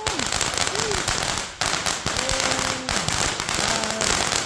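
World Class Fireworks 'Angel's Kiss' fountain spraying sparks with a dense, continuous crackling, though the fountain is sold as noiseless.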